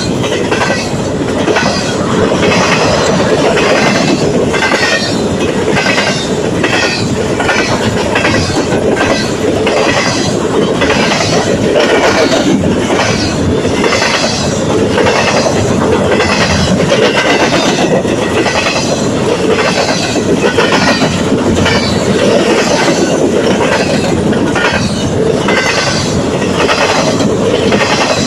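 Double-stack container well cars rolling past at close range: a loud, steady rumble and rattle of steel wheels on rail, with a regular clicking a little more than once a second.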